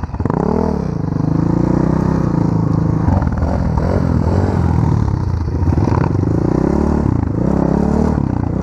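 Engine of an off-road pit bike or ATV running under load, its pitch rising and falling again and again as the throttle is opened and eased while riding, with some clatter.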